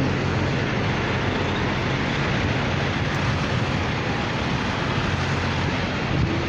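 Diesel semi-truck engines idling steadily: a low, even hum under a constant hiss.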